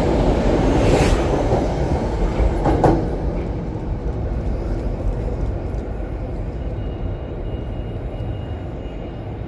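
A Metro-North commuter train running through the station, a heavy rumble with two sharp wheel clacks in the first three seconds, then fading steadily as it pulls away.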